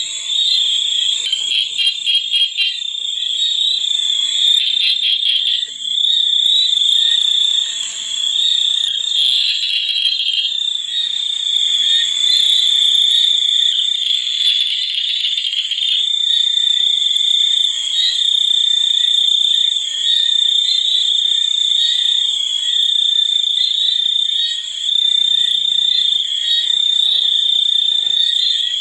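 Steady high-pitched chorus of insects and frogs, a continuous shrill drone with stretches of rapid trilling pulses in the first half.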